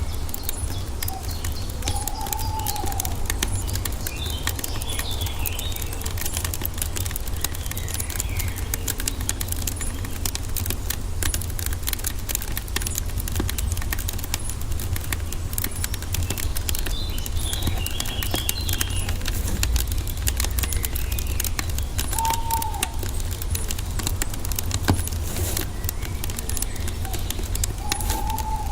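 Wood fire crackling with a constant stream of small pops over a steady low rumble, while birds twitter twice and give a few short, arched calls.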